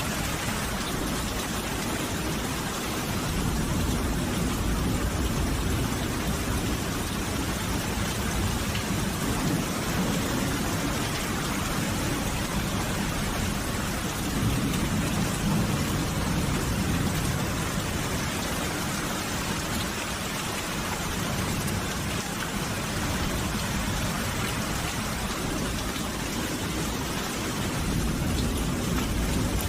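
Steady, heavy rain falling, with a low rumble of distant thunder swelling up three times.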